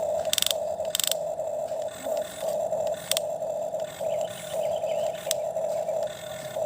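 Small electric motor of a toy excavator whirring in short on-off spurts, with a few sharp clicks.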